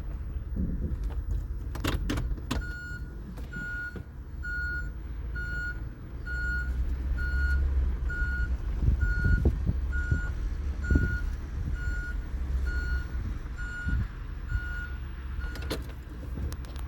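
Electronic warning beeps, one short pitched beep about every second, over a constant low rumble; a couple of sharp clicks come just before the beeping starts.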